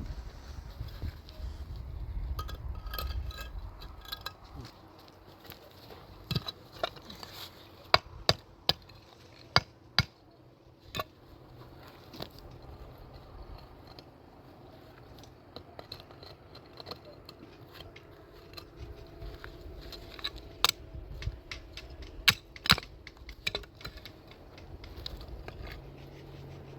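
Scattered sharp clinks and knocks of hand masonry work, stones being set and tapped into cement mortar, with a cluster of hits about a third of the way in and another cluster later.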